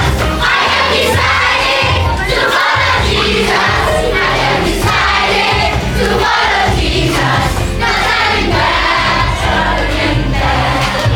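Loud worship music with a steady beat and a group singing along.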